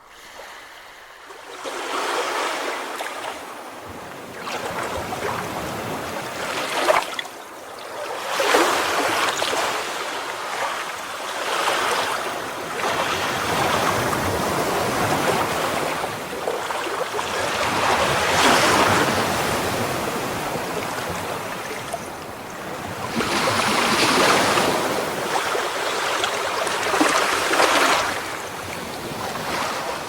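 Ocean waves breaking on a shore, a rushing wash that swells and fades every few seconds.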